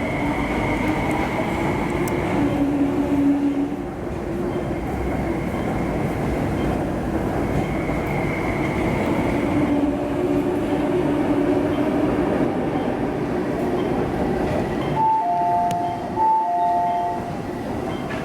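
An MTR West Rail IKK electric train running, a steady rumble with whining tones that fade in and out. About 15 seconds in, a two-note beep sounds twice.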